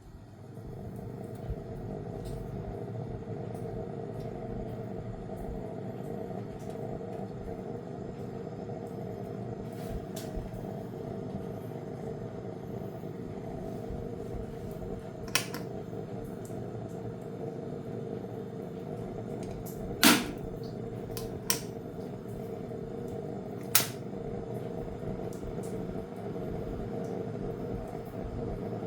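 Steady whirring hum of an appliance motor, a fan or compressor, coming up to speed in the first second and then running evenly. A few sharp clicks stand out over it, the loudest about two-thirds of the way through.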